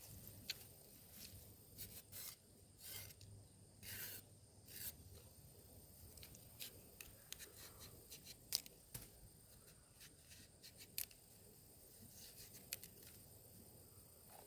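Faint, scattered clicks and short scratchy rubbing or scraping sounds of small objects being handled.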